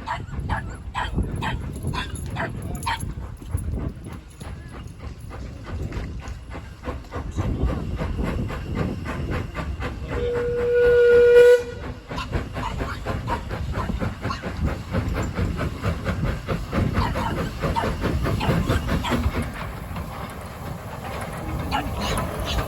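Steam locomotive working with regular exhaust beats, and one steam whistle blast of about a second and a half, a steady single note, about ten seconds in.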